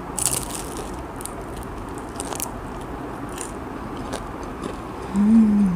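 A bite into a crisp fried banana spring roll (popia pisang) drizzled with Nutella: a burst of crunching, then chewing with a few single crunches. Near the end comes a short closed-mouth hum.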